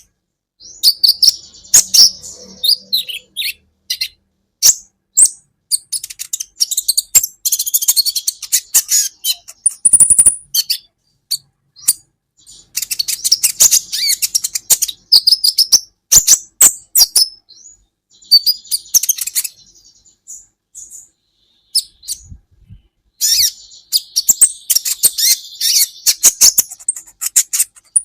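Kolibri ninja sunbird song: bouts of rapid, high-pitched chirps and twittering trills separated by short pauses, with a brief thin high whistle about ten seconds in.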